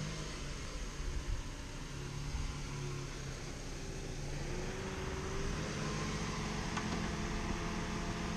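Car engine running at low revs as the car reverses slowly. Its pitch rises gently about halfway through as it picks up a little.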